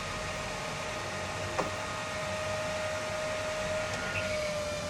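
A small electric fan running steadily with a faint whine, with a single click about a second and a half in.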